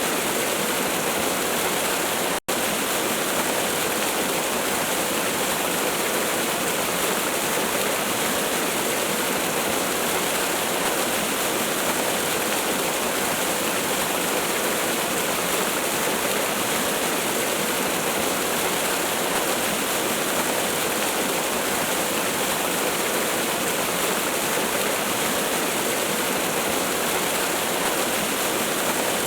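Steady rushing roar of a waterfall, an even wall of water noise with no let-up, broken once by a split-second dropout about two seconds in.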